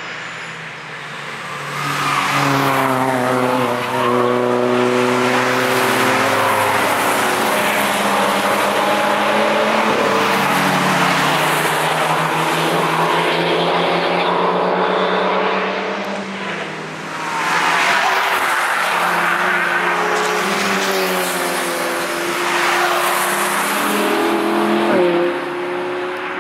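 Several cars passing close by at speed one after another, their engines revving hard with pitch rising and falling through gear changes. The sound is loud from about two seconds in, dips briefly about two-thirds of the way through, then builds again as the next cars come by.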